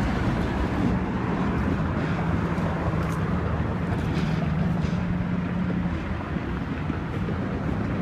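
Steady outdoor background noise with a low droning hum, like a vehicle engine running nearby; the hum drops away about three-quarters of the way through.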